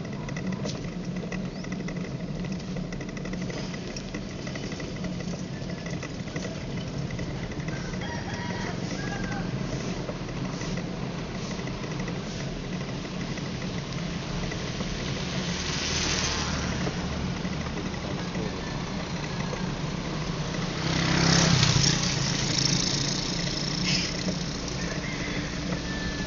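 Road traffic: a steady low hum with vehicles going past, one about 16 seconds in and a louder one about 21 seconds in.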